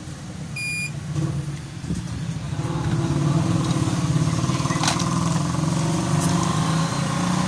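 Engine running steadily, growing louder about two to three seconds in. A short high beep sounds near the start and a few light clicks come later.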